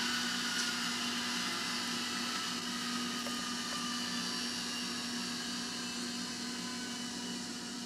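Simulated EMD GP60 diesel sound from a LokSound micro DCC decoder, played through the N scale locomotive's small speaker. The prime mover runs steadily with a whine that slowly falls in pitch as the engine eases down.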